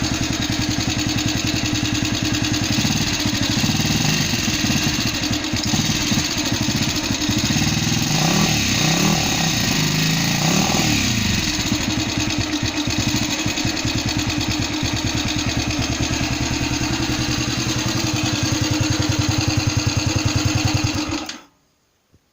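The rebuilt NSU Pretis 175 single-cylinder two-stroke engine running steadily, blipped up and back down twice around the middle. It stops abruptly near the end.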